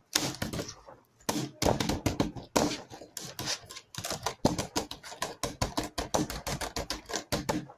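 Slime being worked and pulled by hand, giving dense, irregular sticky clicking and popping.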